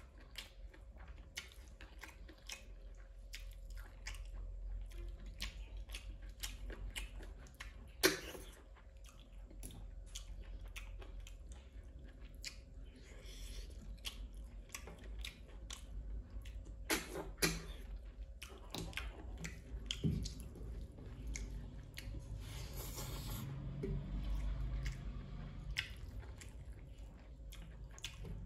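Close-miked chewing of rice eaten by hand, with wet mouth smacks and clicks coming every fraction of a second. A few louder sharp clicks stand out, one about 8 seconds in and two around 17 seconds.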